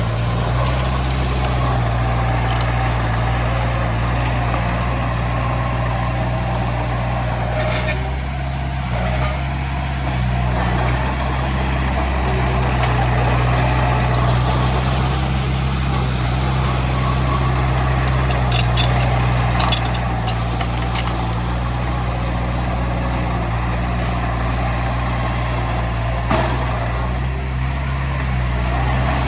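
Heavy diesel engine running steadily under load, with a few short metallic clicks and rattles over it.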